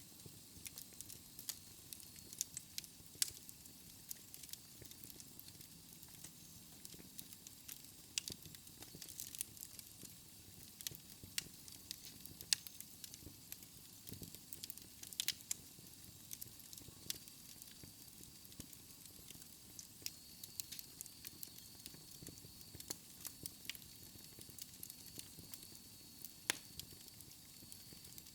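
Wood fire crackling in a fireplace: irregular sharp pops and snaps over a soft, steady low rumble of the flames.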